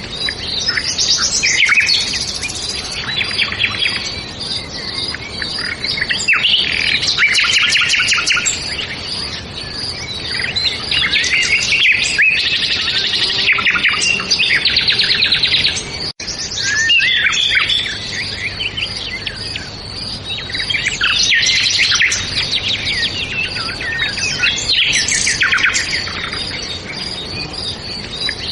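Songbirds chirping and singing, with many overlapping calls and rapid trills. The sound drops out for an instant about halfway through.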